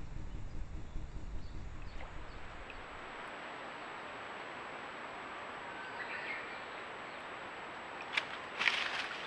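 Outdoor forest ambience picked up by a trail camera's microphone: a steady hiss, with a low rumble for the first two seconds and a faint bird chirp midway. Near the end comes a sharp click, then a short rustle.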